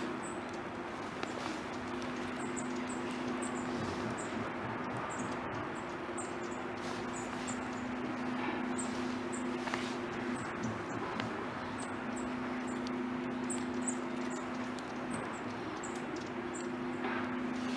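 High, thin animal chirps, short and repeated in twos and threes every second or so, over a steady low hum and a wash of background noise.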